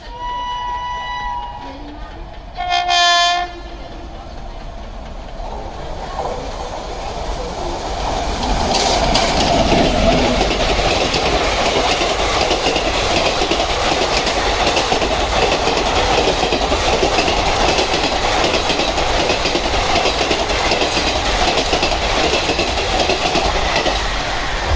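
Express train locomotive sounding its horn twice, a short call and then a louder blast about three seconds in, as it approaches the station. The train then passes through at high speed with a loud, continuous rail rumble and clatter of the coaches.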